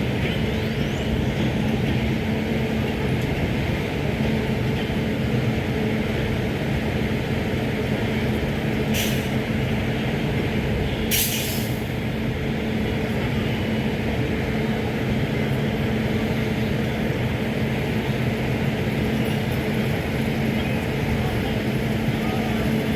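Train at the station with its electric locomotive humming over a steady rumble, and two short hisses of air about nine and eleven seconds in.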